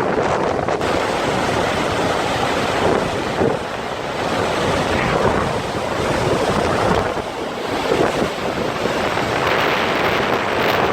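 A large waterfall's steady rushing roar, with wind buffeting the microphone.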